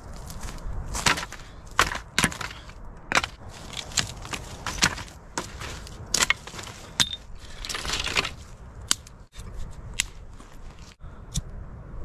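Irregular sharp cracks and knocks of wood being broken up for firewood, about one or two a second.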